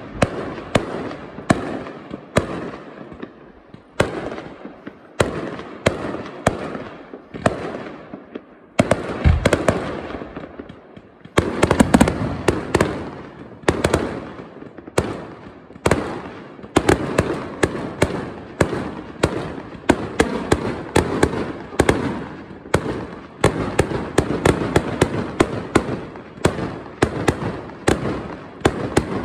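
Aerial fireworks bursting overhead: sharp bangs, each trailing off in an echo. They come about a second apart at first, then thick and fast, several a second, from about a third of the way in.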